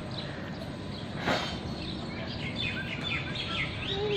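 Birds chirping over steady low background noise, with a run of quick falling chirps in the second half. A brief rush of noise about a second in.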